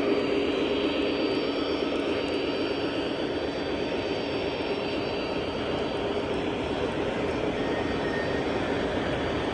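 Steady, even running noise of model trains on a club layout, with no distinct events, heard against the background of an exhibition hall.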